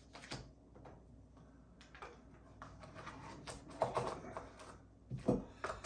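Irregular light clicks, taps and rustles of hands handling an opened product box and its packed accessories, with a few sharper knocks about three and a half to four seconds in and again just after five seconds in.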